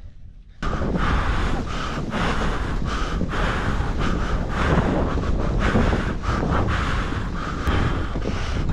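Strong wind buffeting the microphone, a loud rumbling rush that cuts in abruptly about half a second in and keeps gusting unevenly.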